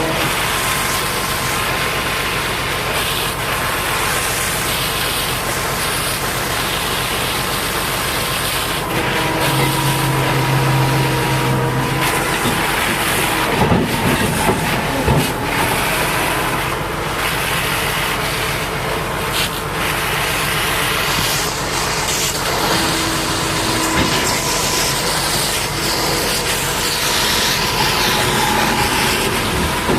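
High-pressure water spray hissing steadily against a mud-caked bulldozer, with a machine's engine running underneath and a few knocks about halfway through.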